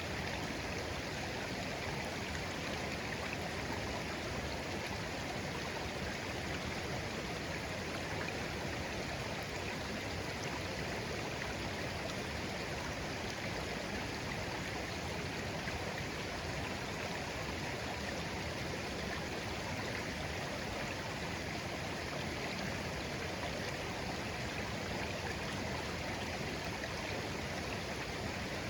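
A shallow stream of clear water flowing gently, a steady babble and rush without any change.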